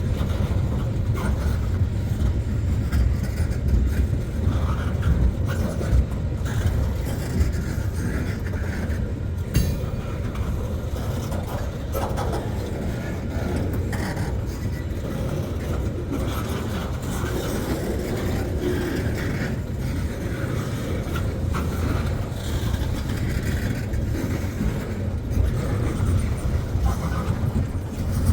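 A freight train's cars rolling past: a steady low rumble of steel wheels on the rails, with scattered clicks and clanks.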